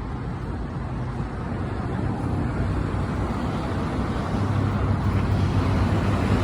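Diesel locomotive engine rumbling steadily, growing slowly louder.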